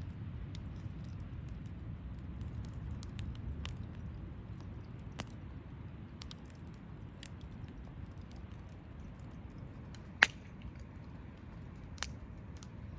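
Campfire burning: a low steady rush of the flames with scattered sharp crackles and pops, the loudest about ten seconds in and another near the end.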